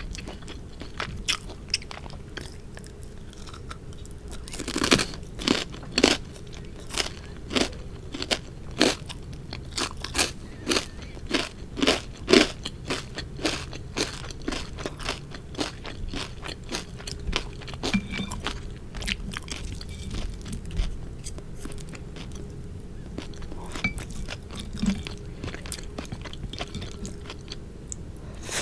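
Close-miked crunchy chewing: a person chewing food with a run of crisp crunches, about two a second, for the first half after a few seconds, then settling into softer, quieter chewing.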